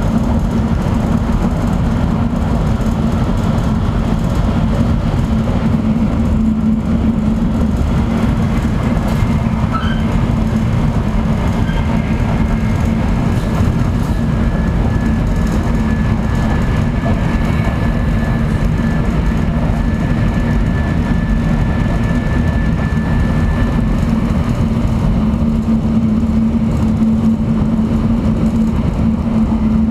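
Steady running noise of a Shinkansen bullet train heard inside the passenger car: a dense rumble with a strong low hum. A faint high whine comes in about twelve seconds in and fades about twelve seconds later.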